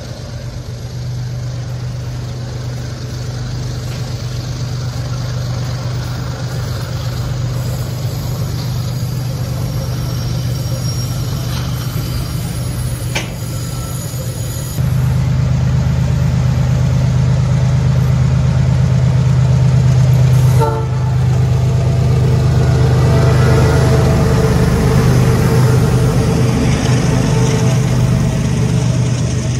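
Freight train of boxcars rolling past, a steady low rumble of steel wheels on rail. About halfway through it gets louder and stays loud as a mid-train diesel locomotive comes by, its engine drone joining the rolling noise.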